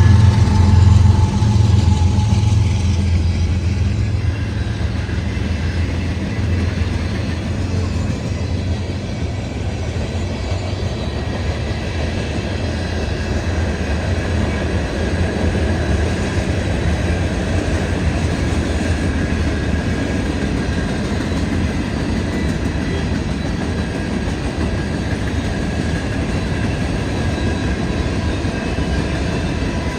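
CN diesel freight locomotives running loud at the start and fading over the first few seconds. A freight train's cars then keep rolling by with a steady rumble of wheels on rail.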